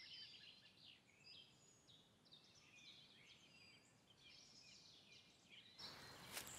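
Faint birdsong, many short chirps and trills, over near silence. About six seconds in, a fuller outdoor hiss takes over with a faint tick.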